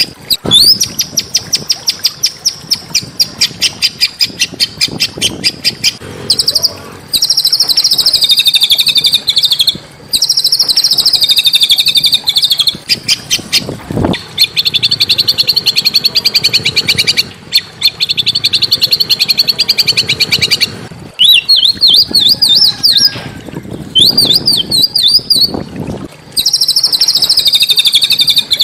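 A small songbird singing loud, rapid trills of high repeated notes in long runs broken by short pauses. About two-thirds of the way in, the trills give way to a run of quick rising notes.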